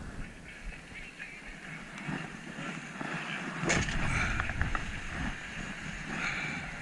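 Motorcycle on the move, its engine and road noise heard under wind buffeting a helmet-mounted camera's microphone. There is a sharp click about four seconds in, and the low rumble grows louder after it.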